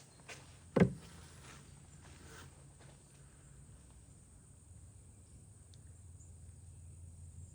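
A single sharp thump about a second in, then a quiet background with a faint, steady high hum.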